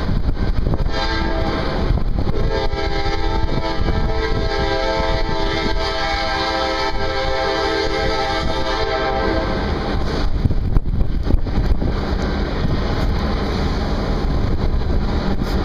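Diesel locomotive horn sounding one long blast of about seven seconds, over the steady rumble of a passing freight train. The horn cuts off suddenly, followed by a few sharp knocks from the train.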